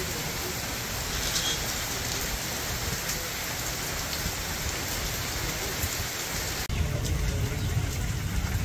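Heavy tropical rain falling steadily, a dense hiss of drops on the ground and surfaces. About two-thirds of the way through, the sound abruptly turns duller, with less hiss and more low rumble.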